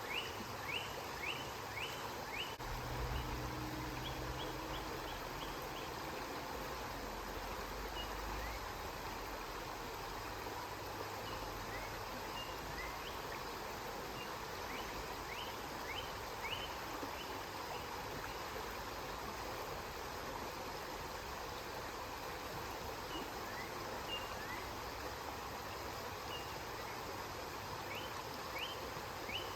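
Steady rush of flowing river water. Series of short, high rising chirps repeat about twice a second near the start and again near the end, and a low rumble sounds under the water between about three and nine seconds in.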